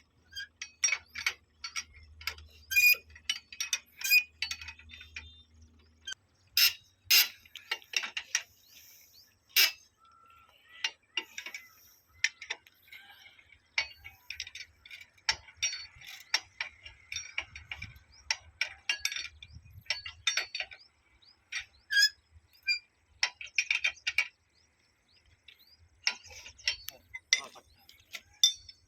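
Irregular sharp metallic clinks and knocks of hand tools and track fittings being handled and struck while a railway point machine is fitted, some strikes ringing briefly. A faint low hum sits under the first few seconds.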